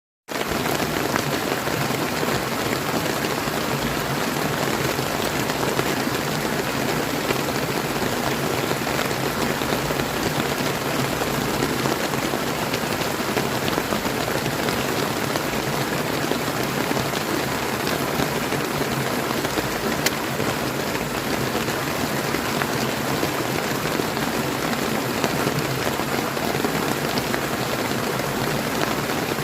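Steady, even rain, mixed with the running water of a clear river. It starts abruptly at the very beginning.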